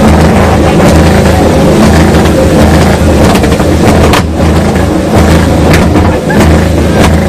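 A car engine running steadily and loud, with a deep, even rumble and no revving.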